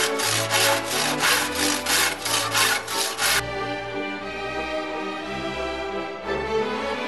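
Hand saw cutting, about three quick strokes a second, stopping about three seconds in, over background music with a steady bass line.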